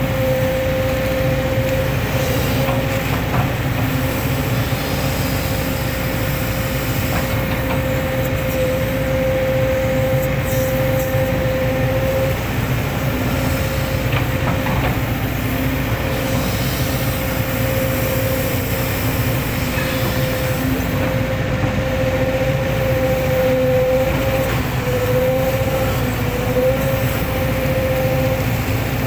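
Hitachi hydraulic excavator running steadily under work, a low engine rumble with a steady whine above it that wavers slightly near the end.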